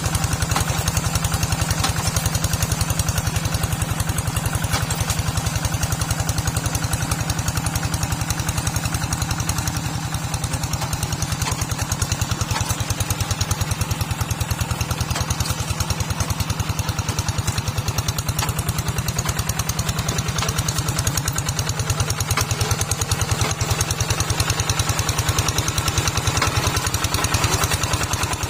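Small tractor engine running steadily with a fast, even thumping beat that holds the same pace throughout.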